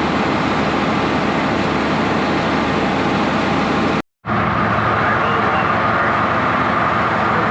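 New Holland 8770 tractor's diesel engine running steadily with its PTO stuck engaged. The sound cuts out briefly about four seconds in, then resumes with a steady higher whine over the engine.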